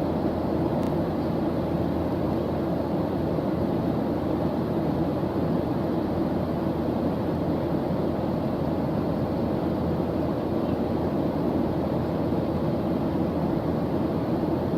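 Steady, unbroken background noise track of the kind sold as white noise for studying: a deep, even hiss with no rhythm and no changes in level.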